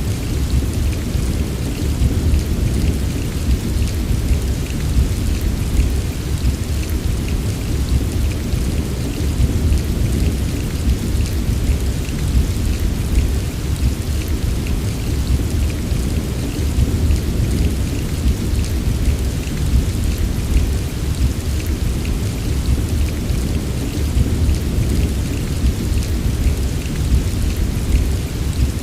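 Steady heavy rain with a constant deep rumble underneath and a fine patter of drops on top.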